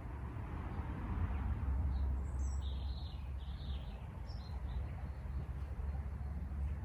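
Outdoor ambience: a steady low rumble under a haze of noise, with a few short, high bird chirps in a cluster near the middle.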